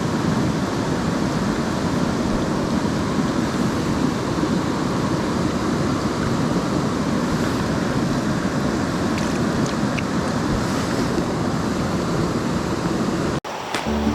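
Mountain stream rushing steadily, a continuous wash of running water; it cuts off abruptly near the end.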